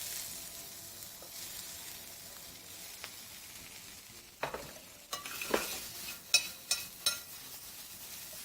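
Sliced vegetables sizzling in a hot sauté pan, a steady hiss. From about halfway in, a run of knocks and scrapes as they are stirred in the pan.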